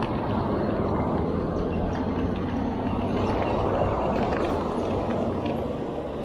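Road traffic going by: a steady rush of engine and tyre noise that swells a little toward the middle and then eases.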